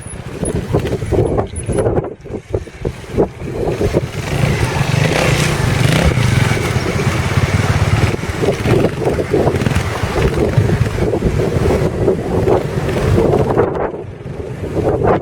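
Trials motorcycle engine running and revving, pulling harder and louder through the middle few seconds before easing off.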